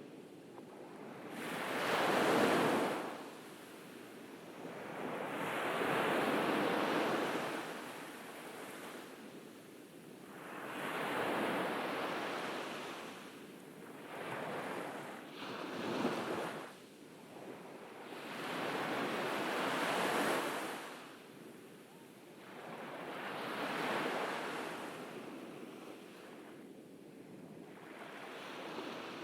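Ocean waves breaking and washing up a beach, each surge swelling and fading away, one roughly every four to five seconds.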